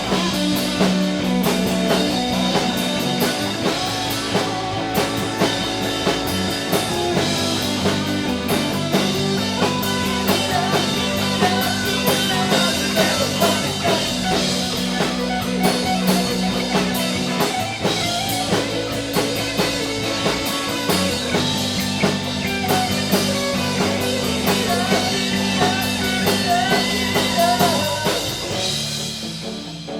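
Live rock band playing an instrumental passage: electric guitar over bass and drum kit. The band drops down quieter near the end.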